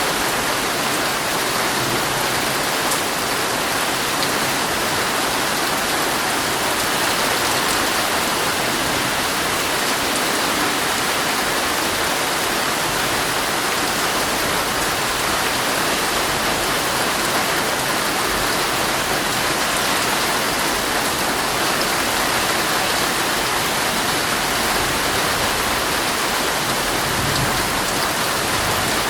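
Heavy rain falling steadily on a tent, an even hiss of dense drops with occasional sharper drop ticks.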